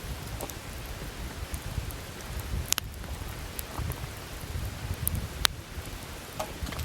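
Wood campfire burning: a steady low rumble of the flames, with scattered crackles and two sharp pops, about three seconds apart.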